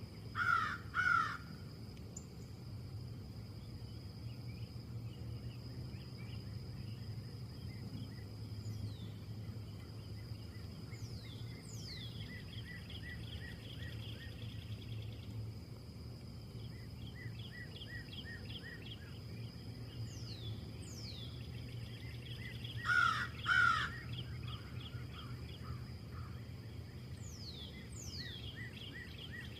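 A bird calling with short calls in pairs, about half a second in and again about 23 seconds in, over a steady low background rumble. Thin, quickly falling whistles and fast runs of chirps sound in between.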